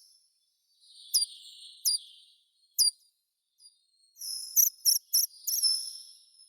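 A songbird singing two bursts of very high, sharp chirps over a buzzy hiss, with a pause of about a second between them.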